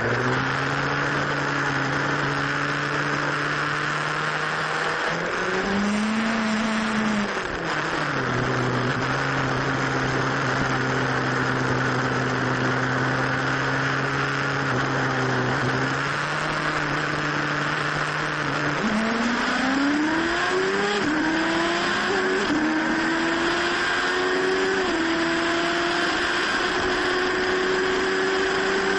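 A car engine running steadily over road noise. Its pitch rises and falls once, then climbs in several steps as it accelerates through the gears.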